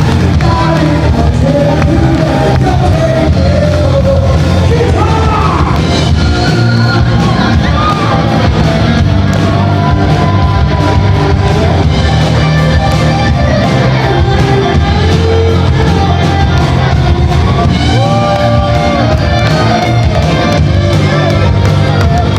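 Live band music played loudly, with a singer's voice carrying the melody over a steady bass, and some shouting mixed in.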